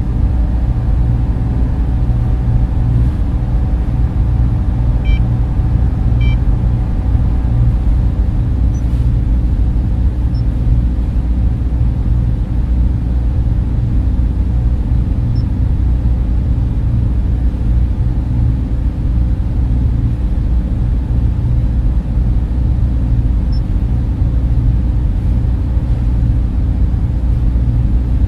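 Server room cooling fans running in a steady, unbroken whir with a heavy low rumble and a constant hum. Two faint high blips come about five and six seconds in.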